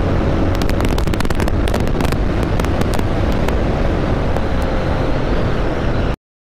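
TVS Apache RTR 160 2V motorcycle on the move: steady engine and road rumble with wind crackling on the microphone, cutting off abruptly about six seconds in.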